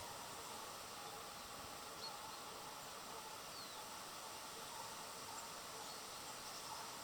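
Faint outdoor ambience: a steady hiss with a few faint, high bird chirps, one a short falling whistle about three and a half seconds in.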